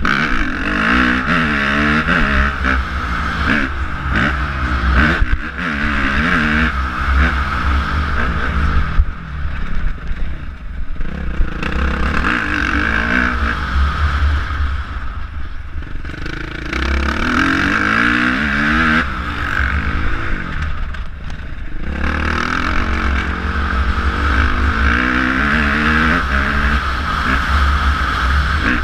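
Motocross bike engine revving up and backing off again and again as it is ridden round the track, the pitch climbing and dropping with each throttle change and easing off briefly a few times, over a heavy low rumble.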